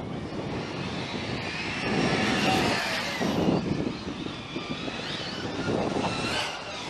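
Radio-controlled model's motor whining as it is driven, its pitch gliding up and down as it speeds up and slows.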